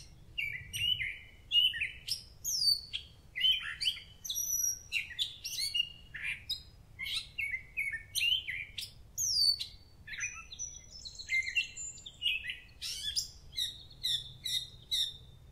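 Songbirds singing: a dense, unbroken run of short chirps, whistled notes and quick downward sweeps, with a brief buzzy trill about two-thirds of the way through.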